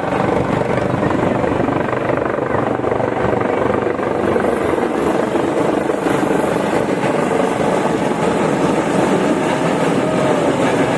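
Helicopter running close by: loud, steady rotor and engine noise with a fast flutter from the blades.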